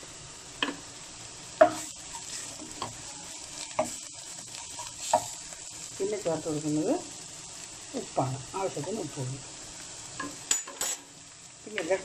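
Sliced onions and ground spices frying in a pot with a steady sizzle, stirred and scraped with a wooden spoon that knocks against the pot now and then.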